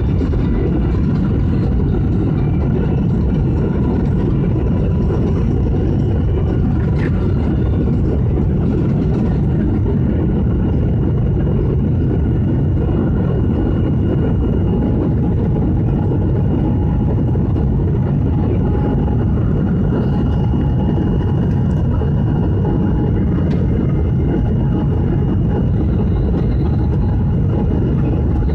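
Aircraft engines and airflow making a steady, unbroken low rumble, with faint steady tones above it.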